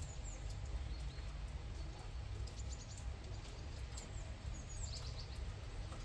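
Small birds chirping: short, high, falling chirps, a quick run of them about two and a half seconds in and again about five seconds in, over a steady low outdoor rumble.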